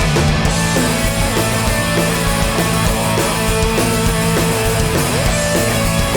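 A hardcore punk band playing live: distorted electric guitars, bass and drums in a loud, fast instrumental passage with no vocals.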